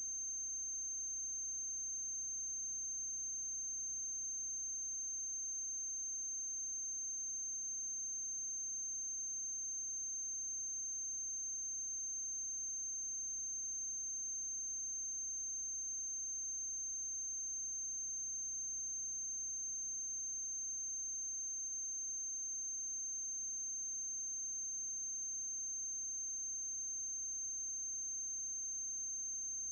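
Steady electrical noise with no other sound: a constant high-pitched whine over a low hum and faint hiss, unchanging throughout.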